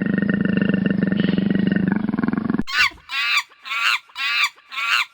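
A large animal's long, low growl, rapidly pulsing, cuts off a little over halfway through. It is followed by a run of short, high dog yelps, each falling in pitch, about two a second.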